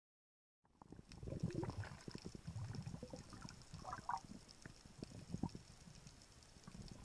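Unidentified underwater sound: faint, irregular low knocks, clicks and rumbling, with a short pitched blip about four seconds in. It starts after a moment of dead silence.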